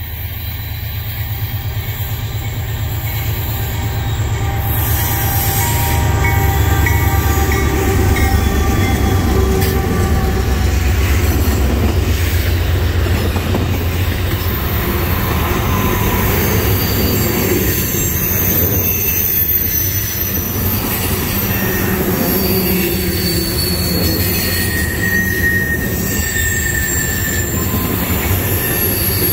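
Norfolk Southern freight train passing close by. A heavy diesel locomotive rumble builds and is loudest in the first half as the lead units go by. Then the trash-container cars roll past with a high wheel squeal.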